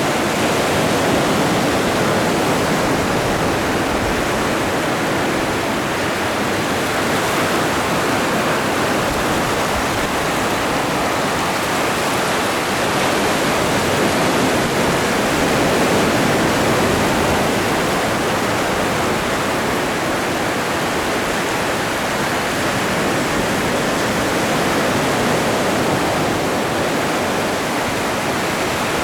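Atlantic Ocean surf: a steady, continuous rush of breaking waves that swells gently now and then.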